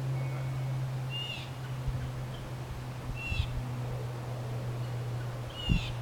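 A bird calling three times, short sharp notes about two seconds apart, over a steady low hum; a dull thump near the end.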